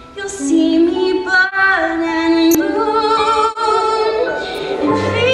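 A woman singing a slow ballad with vibrato over instrumental accompaniment, with a low bass note entering near the end.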